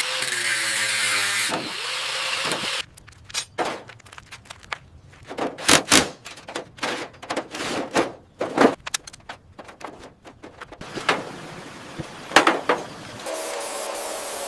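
Irregular sharp knocks and clatters, many of them in quick runs, after a loud steady noise at the start. A steady hiss begins near the end.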